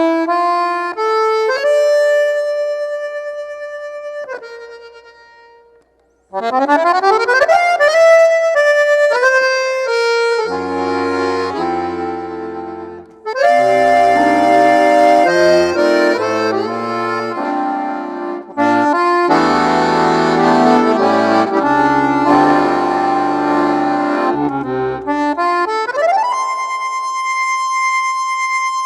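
Accordion (sanfona) music: held chords, a brief pause about five seconds in, then quick melodic runs over bass notes and full chords. It ends on a long note that slides upward and holds.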